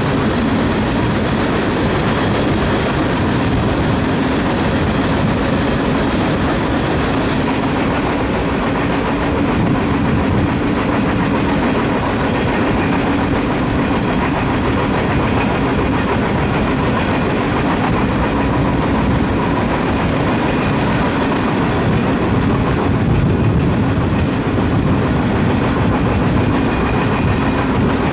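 Freight train running steadily, heard from aboard one of its cars: a constant rumble of steel wheels on the rails with some clickety-clack and a few faint steady tones.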